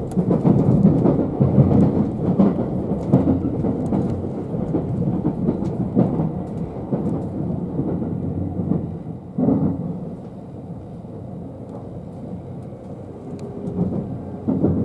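Inside a JR West 271 series Haruka limited express car on the move: a steady low rumble of wheels on rail with a rapid run of clicks and clatter as it crosses onto the other line's tracks. The rumble eases to a quieter, smoother run about ten seconds in.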